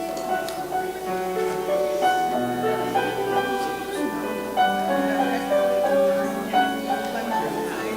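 Slow instrumental keyboard music of held notes changing about once a second.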